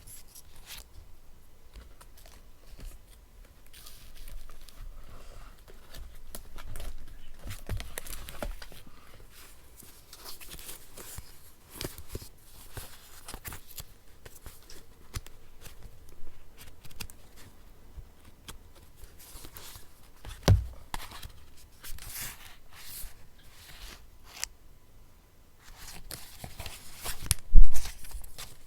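Paper being handled for a collage: tearing, snipping and rustling in short scattered bursts, with a sharp knock about 20 seconds in and the loudest rustle and knock near the end.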